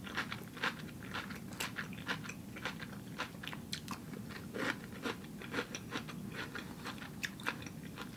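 A person chewing mouthfuls of crunchy salad, a quick irregular run of crisp crunches several times a second.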